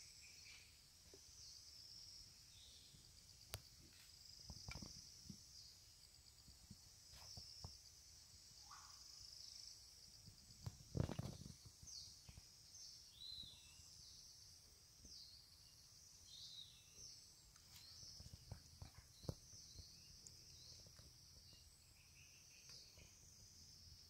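Faint high-pitched chirping from small birds, short falling chirps repeated irregularly, over a steady high hiss. A few soft knocks break in, the loudest about eleven seconds in.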